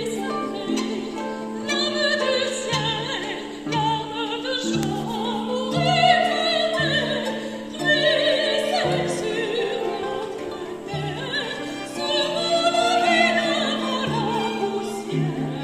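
Soprano singing a slow line with wide vibrato, over a held low note and short plucked low harp notes.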